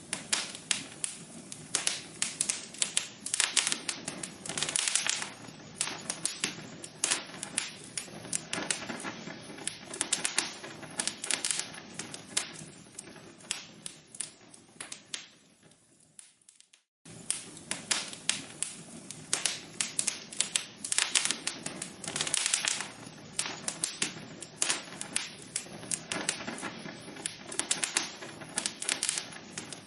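Log fire crackling in a fireplace, with dense, irregular pops and snaps over a soft hiss. The sound cuts out for about half a second midway and then resumes.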